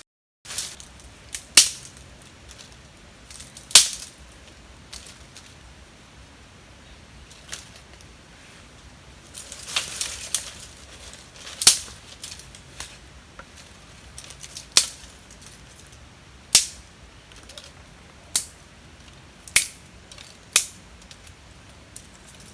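Wood cracking and snapping: about a dozen sharp, dry cracks at irregular intervals a second or two apart, with a short rustly cluster near the middle.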